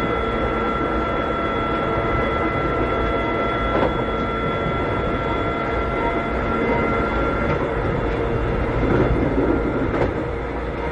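Inside a Keikyu old 600 series electric railcar (car 605, Toyo Denki electrical equipment) under way, with steady rumble and several steady whining tones. The highest-sounding tone stops about two-thirds of the way through. Rail joints click as the wheels pass them: a pair a little over a third of the way in, and another near the end.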